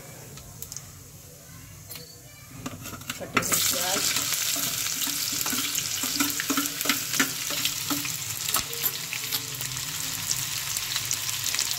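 Cumin seeds crackling faintly in hot oil in a nonstick kadhai, then about three seconds in a wet ground paste of green peas, coriander, chilli, garlic and ginger hits the oil and a loud, steady sizzle full of spitting crackles starts. Chopped onion is scraped in from a steel bowl and stirred through the frying paste.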